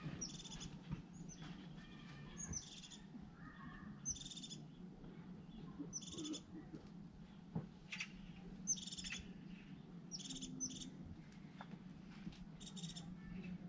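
A bird calling over and over: short, high, buzzy notes, each opening with a quick rising tick, about every second or two. A faint, steady low hum runs underneath.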